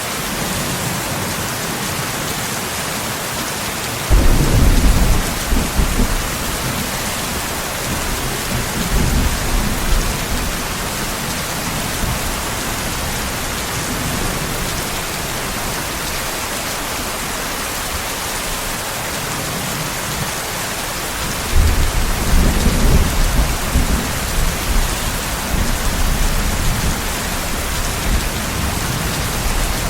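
Steady rain with two rolls of thunder. The first breaks suddenly about four seconds in and rumbles on for several seconds; the second rolls in about two-thirds of the way through and rumbles almost to the end.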